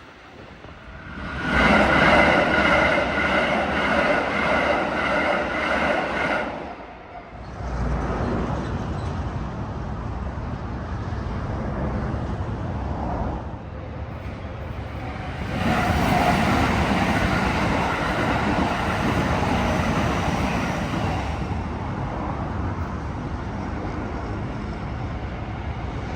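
Keikyu electric trains passing a railway level crossing at speed. The first loud pass runs from about a second in to about six seconds, a steady rumble follows, and a second loud surge comes at about 15 to 21 seconds.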